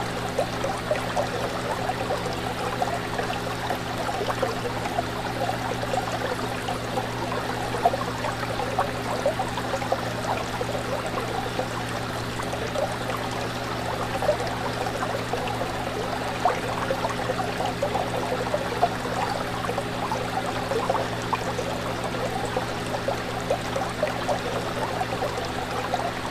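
Fish tank water bubbling and trickling continuously, a dense run of small bubbles and splashes over a steady low hum.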